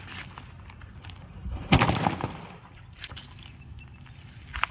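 A 3-inch one-sound firecracker going off with a single sharp bang about a second and a half in, trailing off in a short echo.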